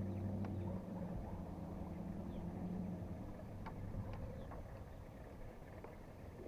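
A distant engine humming steadily, fading away over the first few seconds, with a few faint light clicks near the kayak.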